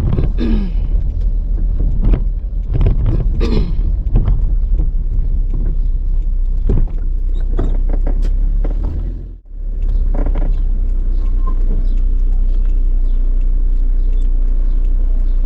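Car running with a steady low rumble, with knocks and rattles through the first half. The sound drops away briefly about nine seconds in, then the steady rumble returns.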